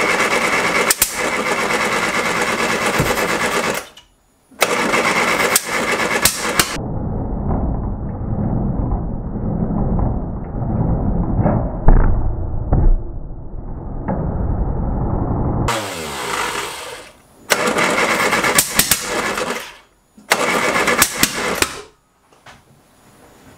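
Classic Mini A-series engine, fitted with an Arden 8-port head and Jenvey individual throttle bodies, cranking on the starter in about five separate bursts, coughing but not catching. One loud backfire pop near the middle spits flame out of the intakes. The owner takes the failure to start to be timing related.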